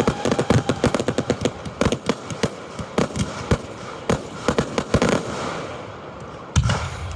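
Fireworks display heard close to the launch area: a rapid barrage of sharp bangs and cracks that thins out after about five seconds, then one deep boom near the end.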